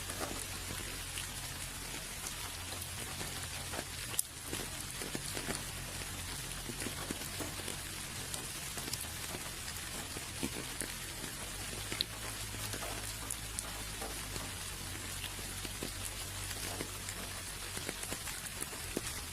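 Steady rain falling, with many individual drops heard as small sharp ticks over an even hiss, and a low steady rumble underneath.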